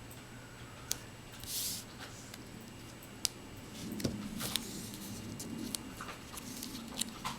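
Small handling noises: scattered light clicks and a short scraping rustle, with a low hum joining about four seconds in.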